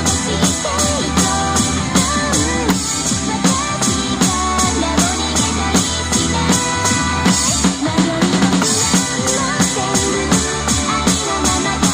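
Drum kit played along to a J-pop idol song, with a steady stream of cymbal or hi-hat strokes about three to four a second over bass drum and snare, under the song's sung melody and backing track.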